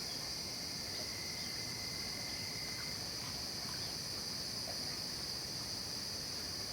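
Night insect chorus in a late-summer forest: a steady, unbroken high-pitched trilling with no pauses, and a fainter lower tone for about two seconds early on.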